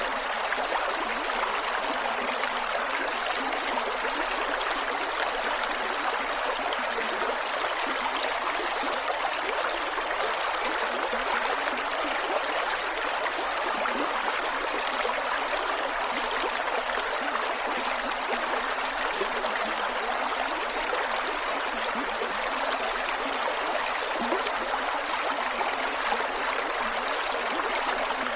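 Creek water flowing and gurgling over rocks, a steady, even rush with no breaks.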